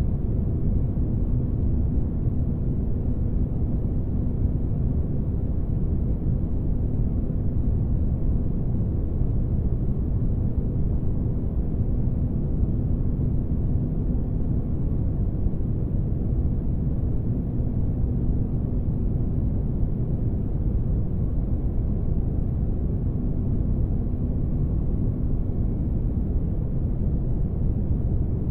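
Spaceship-interior ambience for sleep: a steady, unbroken low rumble with a faint steady hum running through it.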